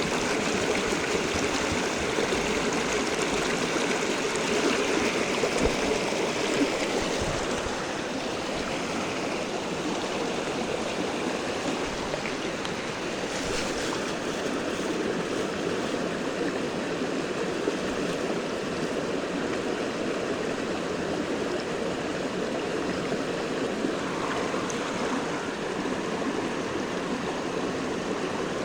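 Steady rush of flowing stream or river water, a little louder for the first several seconds.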